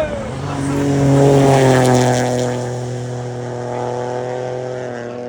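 Rally car engine passing at high, steady revs, loudest about a second in, then fading away as its pitch drops slightly.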